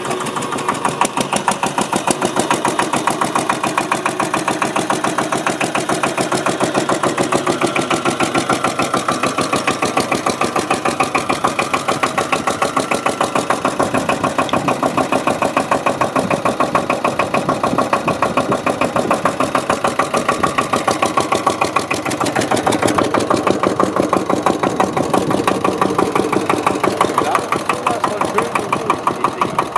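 Hatz E85 single-cylinder diesel stationary engine running steadily at idle, its firing beats coming evenly and rapidly. It gets somewhat louder a little past two-thirds of the way through.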